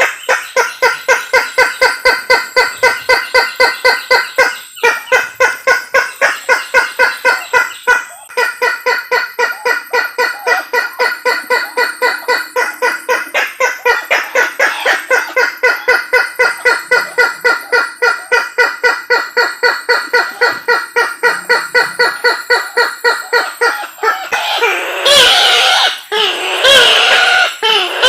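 Call of the Sulawesi kareo, a waterhen, played as a hunter's lure: a long run of evenly repeated pitched notes, about four to five a second, broken briefly twice. Near the end it changes to louder, wavering, overlapping calling.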